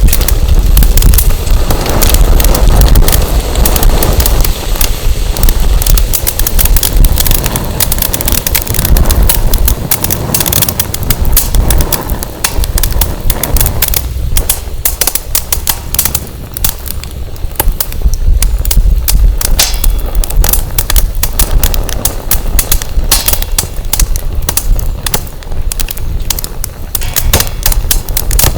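Firewood burning in a campfire, crackling with many quick, irregular sharp pops. Wind buffets the microphone underneath as a low rumble that rises and falls.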